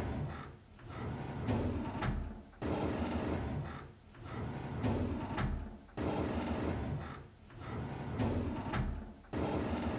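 A drawer sliding on its runners, again and again: about six scraping slides, each about a second and a half long, with short pauses between them. Some slides start abruptly and others build up gradually.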